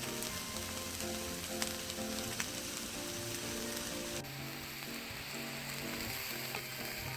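Food sizzling on a grill, a steady hiss with occasional sharp crackles, under soft background music.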